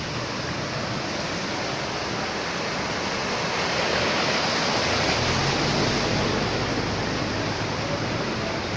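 A steady wash of water noise from a flooded street, swelling slightly in the middle, with a low engine hum joining about five seconds in.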